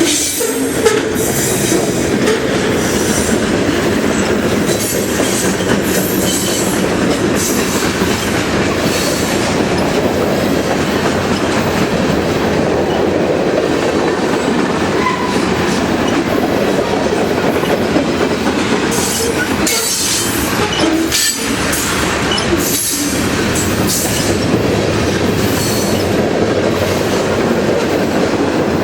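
Freight train cars rolling past close by: a steady, loud rumble of steel wheels on the rails, with repeated clicks as the wheels cross rail joints.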